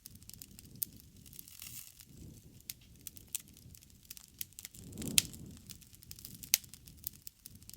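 Wood campfire burning, crackling with irregular sharp pops and snaps over the low flutter of the flames; the loudest snap comes about five seconds in.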